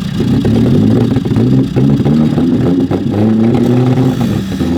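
Off-road 4x4 engine revving hard, its pitch rising and falling again and again as the throttle is worked, with scattered knocks and clatter mixed in.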